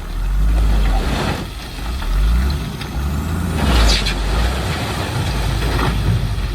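Heavy diesel engine of earthmoving machinery running under load, its level swelling and easing several times, with a short burst of hiss about four seconds in.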